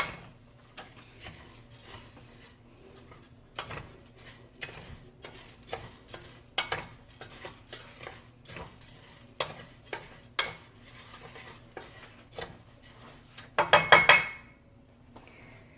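A spoon stirring rice as it browns in oil in a pot, scraping and clicking against the pot at irregular moments, with a light sizzle. Near the end comes a quick run of louder knocks, the loudest part.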